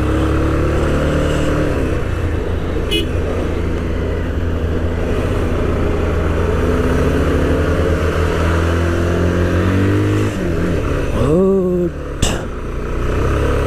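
Motorcycle engine running while riding, its pitch sliding up and down with changes in speed.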